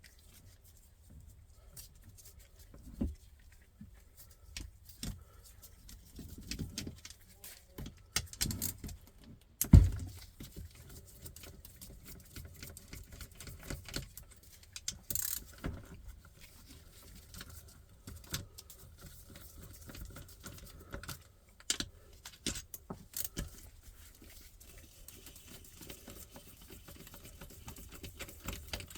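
Irregular clicks, clinks and knocks of hand tools and metal engine parts being handled during the teardown of a small motorcycle engine, with one loud knock a little under ten seconds in.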